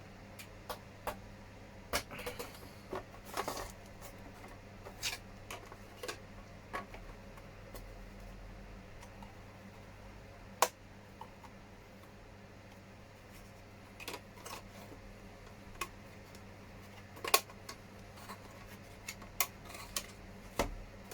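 Scattered clicks, taps and short rustles of small hard-plastic model parts being handled and fitted together on an RC truck cab, with two sharper clicks, one about halfway through and one about two thirds of the way through.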